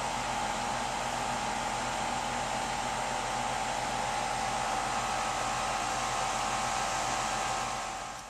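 Rheem RAPM036JEZ 3-ton R-410A condenser running on high speed: a steady rush of fan air with a constant hum and tone, nice and quiet. The sound fades away near the end.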